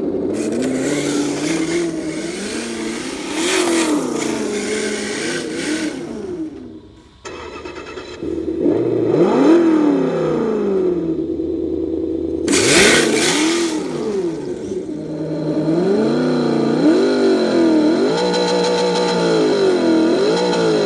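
Simulated Ford 5.0 Mustang GT V8 from an ESS ONE+ sound module, played through the RC car's small speaker, idling and blipping its revs up and down again and again. The sound drops out briefly a few seconds in and then picks up again. Several stretches carry a loud rushing hiss over the engine note.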